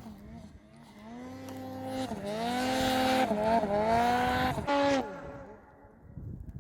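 Snowmobile engine revving hard, its pitch climbing and dipping with the throttle. It is loudest from about two to five seconds in, drops off sharply just after five seconds, then fades.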